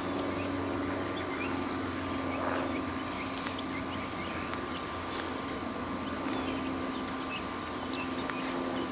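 Honeybees buzzing around an open hive in a steady, even hum, with faint scattered clicks over it.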